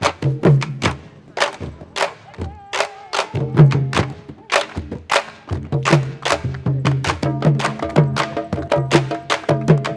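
Candombe drumming: several drums playing together, with sharp stick strikes over low drum tones in a fast, driving rhythm. The drumming thins out briefly about three seconds in, then picks up again.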